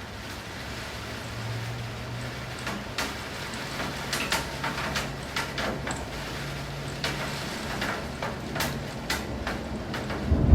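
Steady rain with irregular taps of drops striking hard surfaces, over a faint low hum. A loud, low thunder rumble breaks in at the very end.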